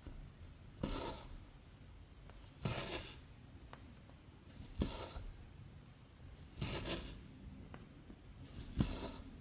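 Cotton embroidery thread pulled through cross-stitch fabric, five strokes about two seconds apart. Each starts with a sharp tick and ends in a short rasping swish.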